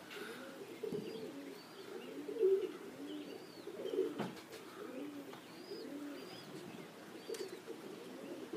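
Domestic pigeons cooing, several voices overlapping in a steady run of low, arching coos, with faint high chirps above them.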